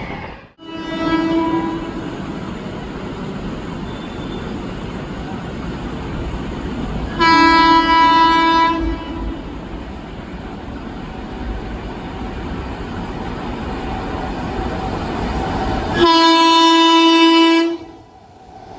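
Electric locomotive horn blown in two long blasts, each about a second and a half, roughly nine seconds apart, with a fainter short blast near the start. Underneath is the steady rushing noise of a train running.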